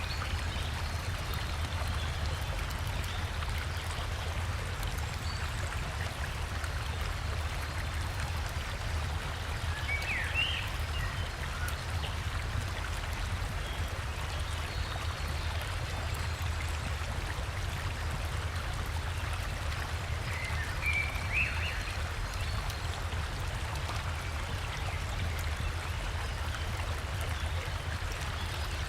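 River water flowing steadily over a small waterfall, with a deep low rumble under the rush of water. A bird chirps briefly about ten seconds in and again about two-thirds of the way through.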